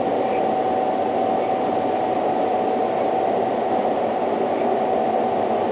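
John Deere combine harvester running steadily while cutting wheat: an even mechanical drone with a constant hum.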